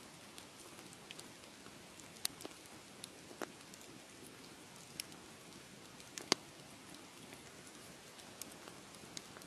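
Wood fire crackling: a steady soft hiss with sharp pops scattered irregularly through it, the loudest about six seconds in.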